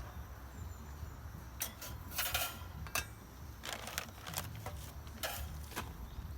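Dishes and cooking utensils clinking: a string of separate light clinks and knocks, a few every second or so, over a low steady rumble.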